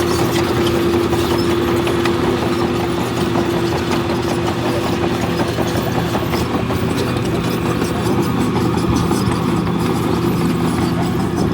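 Heavy diesel engine of earthmoving machinery running steadily, with a held tone that fades about four seconds in.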